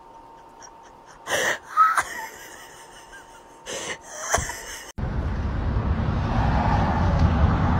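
A cat sneezing four times in two pairs, each a short sharp burst, the pairs about two seconds apart. Near the end a steady low outdoor rumble takes over.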